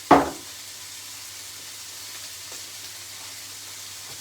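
Chopped pineapple frying in a hot pan, giving a steady sizzle. A single loud knock sounds right at the start.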